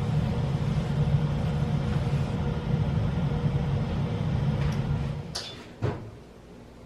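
Kitchen oven humming steadily with a low drone that fades out about five seconds in, followed by two sharp knocks like its door being shut.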